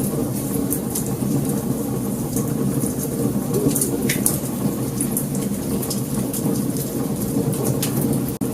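Wood fire burning: a steady low rumble of flames with frequent sharp crackles and pops, and a brief dropout in the sound near the end.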